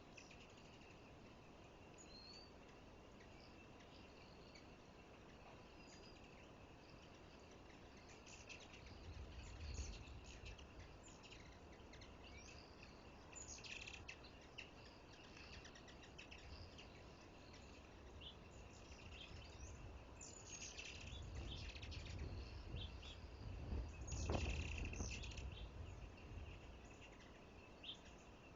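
Faint outdoor ambience around a backyard feeder: scattered short bird chirps over a steady high tone. Low rumbles come about a third of the way in and again near the end, the later one the loudest.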